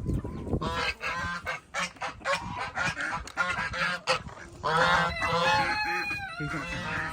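Backyard waterfowl calling: many short, overlapping honking calls from several birds, busiest near the end.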